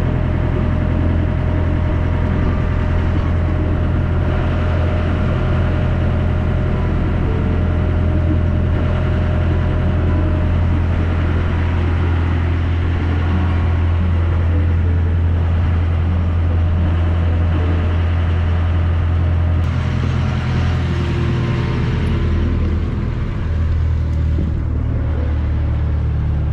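Small river ferry boat's engine running with a steady low drone. The note changes about twenty seconds in and again a few seconds later.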